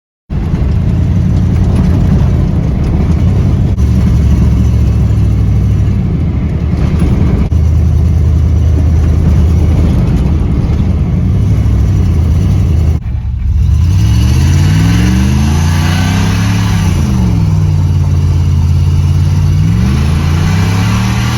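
1996 GMC K1500's 5.0-litre Vortec V8 through a custom exhaust, running hard at steady high revs. About two-thirds of the way through it dips briefly, then is revved up and down twice, the pitch rising and falling.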